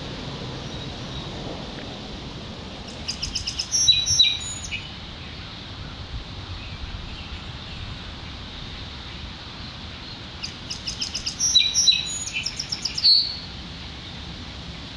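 A songbird singing twice, several seconds apart. Each song is a quick run of high, evenly repeated notes ending in a short trill, over steady outdoor background noise.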